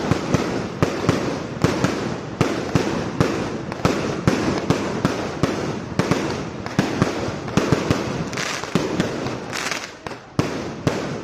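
Fireworks going off in a rapid, continuous barrage: sharp bangs several times a second over a steady crackling hiss, thinning a little near the end.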